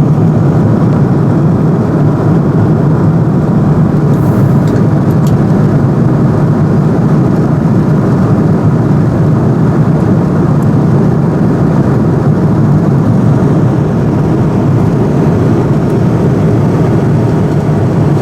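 Steady airliner cabin noise in flight: engines and rushing air heard from inside the cabin, an even low drone.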